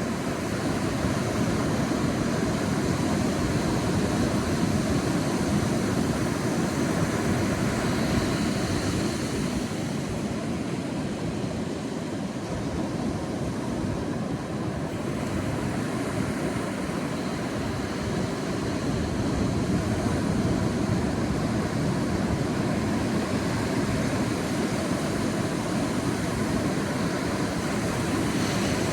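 Sea waves washing onto a beach: a continuous rushing surf that slowly swells and eases, louder in the first third and again after the middle.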